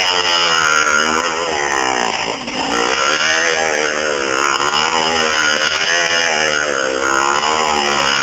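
Minsk two-stroke motorcycle engine running under load, its pitch rising and falling again and again as the throttle is opened and closed.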